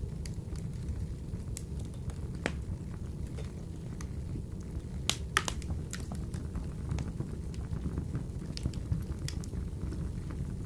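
Wood fire burning in a wood-burning stove: a steady low rumble of flame with sparse sharp crackles and pops, a few louder ones about five seconds in.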